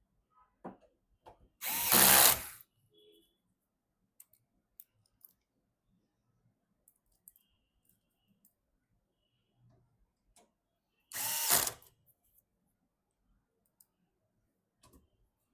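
Small electric screwdriver run in two short bursts of about a second each, about two seconds in and again near eleven seconds, driving screws during PC assembly, with faint clicks of parts being handled between the bursts.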